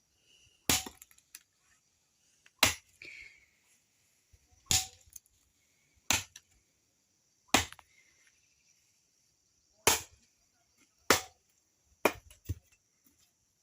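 Small sticks of wood being chopped by hand: about nine sharp, separate chopping strikes, one every one to two seconds, with two close together near the end.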